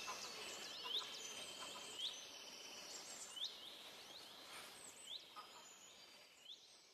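Forest ambience: a bird repeating a short sweeping chirp about once a second over a steady high hiss, the whole fading out toward the end.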